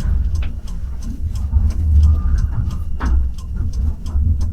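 Tram-train running, heard from inside the passenger cabin: a steady low rumble with scattered clicks and rattles, and a faint thin whine in the middle.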